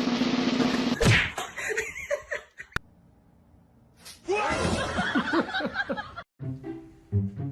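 Separate clips cut together: a loud noisy stretch ending in a sharp thump about a second in, then a short quiet gap, a burst of laughter about four seconds in that cuts off suddenly, and music with spaced notes near the end.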